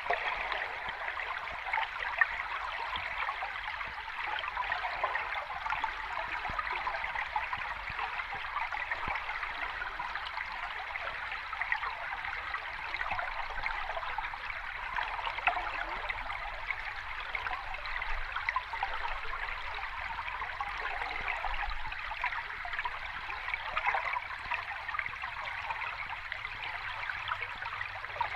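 Water babbling and trickling steadily, a continuous splashy wash with small scattered splashes and no rise and fall of breaking surf.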